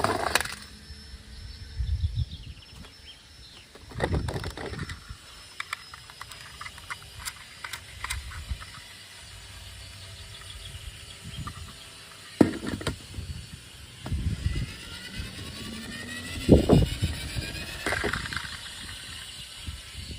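Toy cars being handled and played with: scattered knocks and clicks with a few heavier thumps, and a rising whine in the second half.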